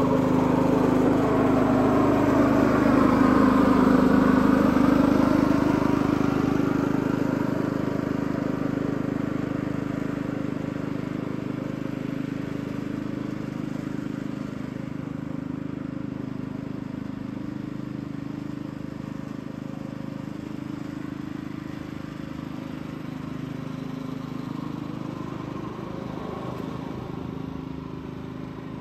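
Allett reel mower running with its motor at a steady pitch, loudest about four seconds in and then growing steadily fainter as it moves away.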